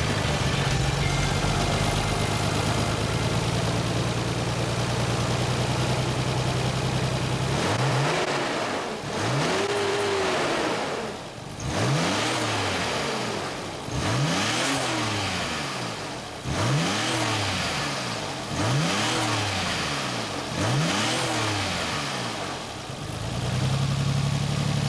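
Nissan Skyline GT-R BNR32's Nismo S1 RB26 twin-turbo straight-six running at a steady idle. From about a third of the way in it is revved in about six throttle blips, each rising and falling over a couple of seconds, and near the end it settles back to idle.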